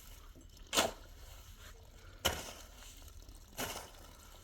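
Shovel striking and scraping into packed snow and ice, three strokes about a second and a half apart.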